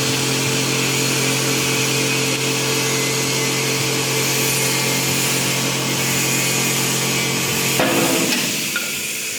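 CNC automatic-feed wood lathe running: a steady motor hum under a bright hiss. A little before the end the hum stops abruptly with a short clatter, leaving only the hiss.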